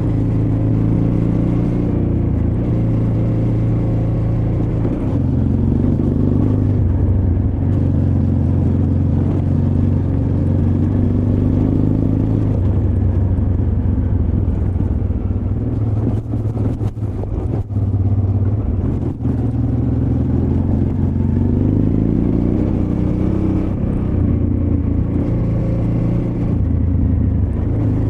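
Honda Transalp XL600V's 583 cc V-twin engine running on the move, its pitch stepping up and down with throttle and gear changes. About halfway through the note eases off for a few seconds, with a few sharp knocks.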